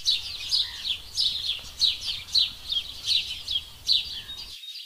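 Birds chirping: short falling chirps repeated two or three times a second, over a faint low rumble that cuts out near the end.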